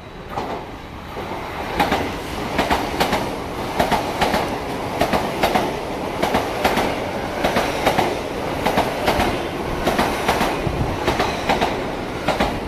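LNER Class 801 Azuma electric multiple unit passing through the station at speed. Its wheels clatter in regular paired clicks over the rail joints as each bogie goes by, over a steady rushing noise that builds about half a second in.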